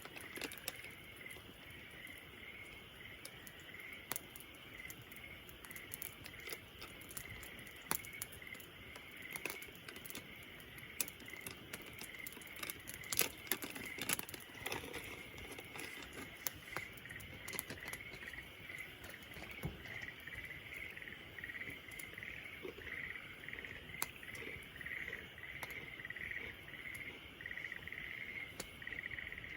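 Campfire crackling, with irregular sharp pops and snaps; the loudest comes about 13 seconds in. Under it runs a steady chorus of high chirping, like night insects such as crickets.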